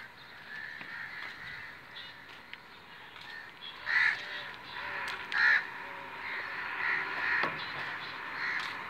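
Birds calling over and over, several calls overlapping, with the two loudest calls about four and five and a half seconds in.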